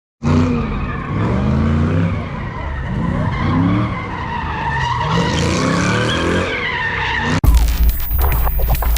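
Car tires squealing in a burnout or donut while the engine revs up and down. About seven seconds in it cuts abruptly to heavy bass thumping with sharp clicks.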